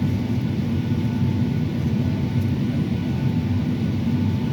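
Steady low rumble inside the cabin of a Boeing 757-300 airliner, with a faint steady whine over it and no changes.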